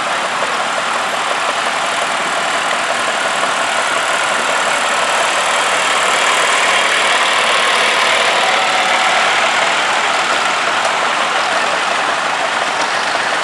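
Vintage farm tractor engines running as tractors drive past in a procession, growing a little louder around the middle as they come closest.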